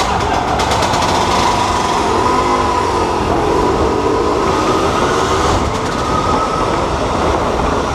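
Vintage Harley-Davidson SX two-stroke motorcycle running hard as it circles the wooden wall of a Wall of Death drum. Its pitch rises and falls as the bike sweeps past.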